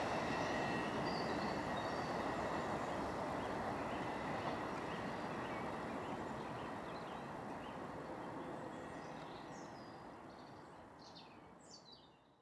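Class 717 Desiro City electric multiple unit running away down the line, its steady rumble fading as it goes. Birds chirp faintly in the last few seconds before the sound fades out.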